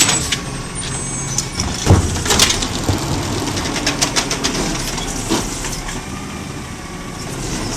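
Garbage truck engine running with a steady low hum, with a few sharp metallic knocks about two seconds in and another clank a little past the middle.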